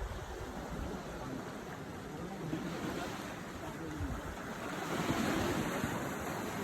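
Wind gusting on the microphone over a steady wash of sea waves.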